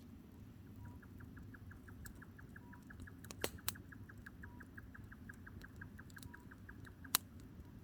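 Firewood burning with a steady low rumble and scattered sharp pops, two close together about three and a half seconds in and the loudest about seven seconds in. A rapid, even series of short high chirps, about five a second, runs through most of it and stops just after the last pop.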